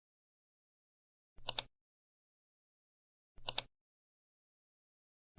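Silence broken by pairs of short, sharp clicks that repeat about every two seconds, three pairs in all.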